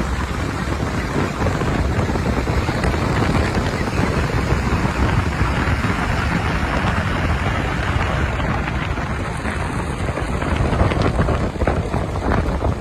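Diesel earthmoving machinery running steadily, with heavy wind rumble on the microphone.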